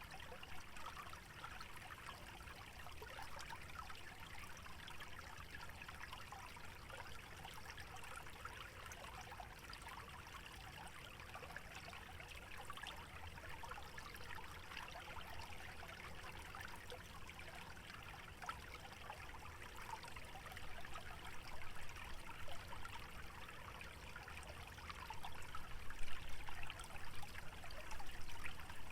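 Small stream trickling and burbling through a wetland, a steady splashing hiss that grows a little louder and more uneven over the last several seconds.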